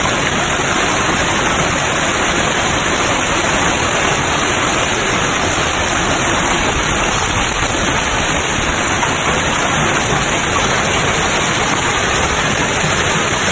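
A heavy hailstorm with large hailstones pelting down, making a loud, steady, dense hiss with no breaks.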